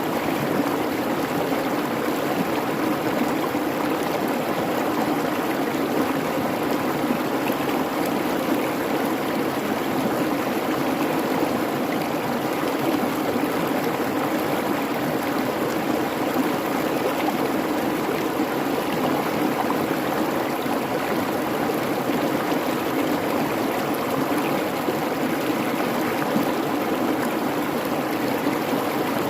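A creek babbling steadily, an even, unbroken rush of running water.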